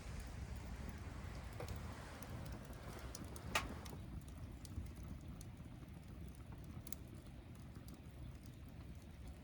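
Faint low rumble with a few scattered small clicks and knocks, the clearest about three and a half seconds in.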